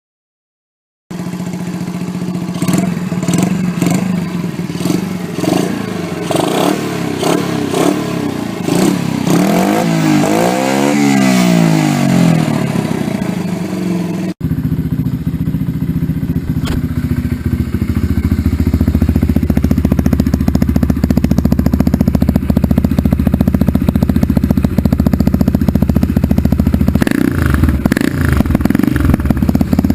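Honda Dax minibike's single-cylinder four-stroke engine running through an aftermarket exhaust. After about a second it is revved and blipped unevenly, with one rise and fall in pitch, then after a sudden cut about halfway it runs steadily with a fast, even exhaust pulse, a little louder.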